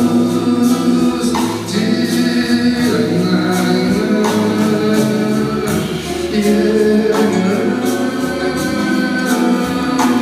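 Live band playing a Brazilian song with guitars, electric bass, drums and keyboards, with held singing voices over the accompaniment and cymbal strokes at a steady beat.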